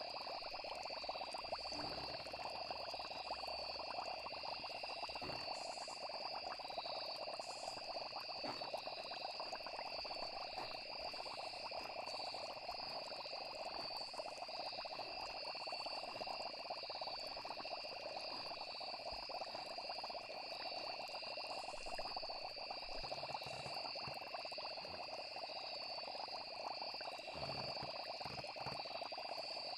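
Steady night chorus of frogs and crickets: an unbroken high, pulsing trill of insects over a dense layer of frog calls.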